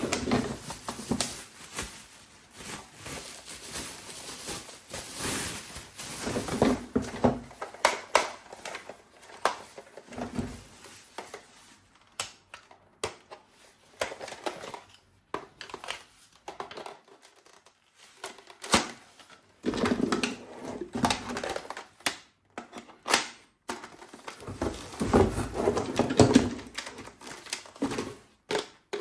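Objects being handled at close range: irregular clicks, knocks and rattles with some crinkling, in bursts with a quieter stretch in the middle.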